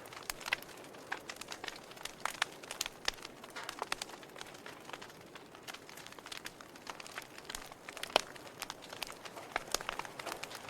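Fire in a fireplace crackling: irregular sharp pops and snaps over a soft steady hiss, with one louder pop about eight seconds in.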